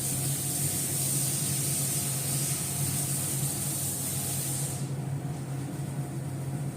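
Steady hiss with a low, even hum underneath; the high part of the hiss fades about five seconds in.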